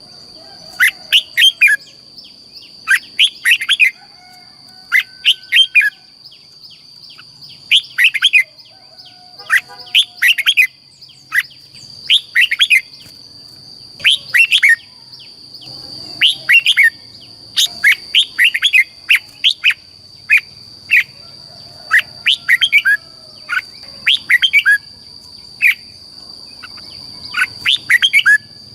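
Red-whiskered bulbul singing: short, quick phrases of bright chirping notes, repeated every second or two, over a steady high whine.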